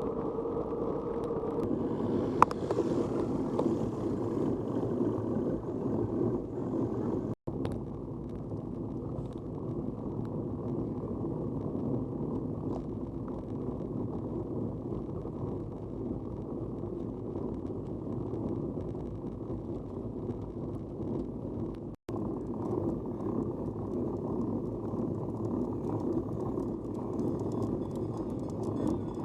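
Steady low rumbling wind and road noise on a camera microphone during a ride, with a single sharp click about two seconds in.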